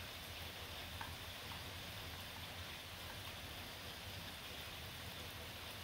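Light rain shower falling steadily, a soft even patter with a few single drops ticking out now and then.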